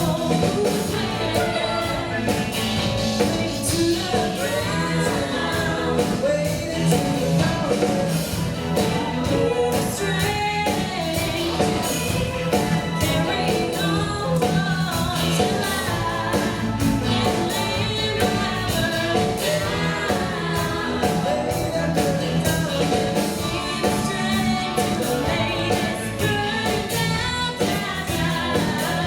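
A live band playing a rock song with a singer, the sung melody over steady drums and instruments.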